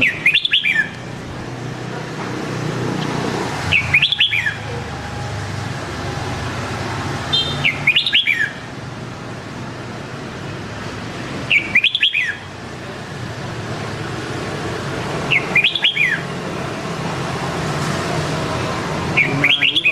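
Red-whiskered bulbul singing: a short, quick, whistled phrase repeated about every four seconds, six times, over a steady background hum.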